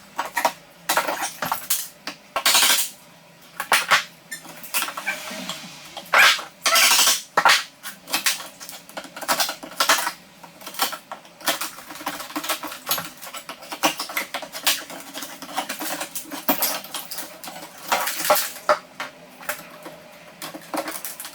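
Hand work on a damaged door jamb: an irregular series of knocks, scrapes and light metallic clinks from tools and wood being handled.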